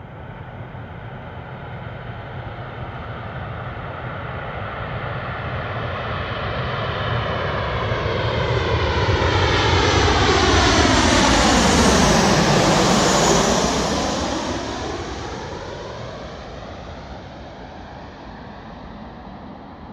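Airliner flying low overhead on landing approach: the engine roar grows steadily louder, peaks with a sweeping whoosh about two-thirds of the way through as the plane passes, then fades away.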